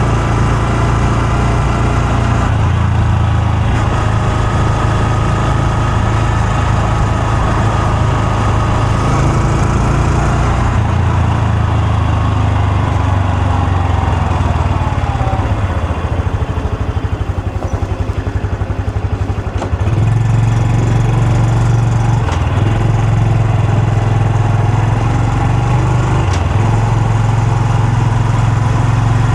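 Honda Super Cub C125's air-cooled single-cylinder four-stroke engine and exhaust on the move. The note eases off and falls in pitch about halfway through, runs low and slow for a few seconds, then picks up again about two-thirds of the way in and holds steady.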